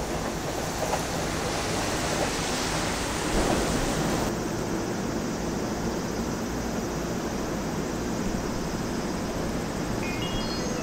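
Electric commuter train running noise: a steady rumble and hiss from passing train cars, changing character about four seconds in. Near the end, a few short high tones step upward as the close train pulls away.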